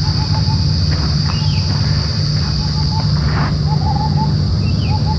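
Forest birds calling: one repeats a short note in quick runs of four or five, and others give scattered rising chirps. Under them run a steady high insect drone and a loud low rumble.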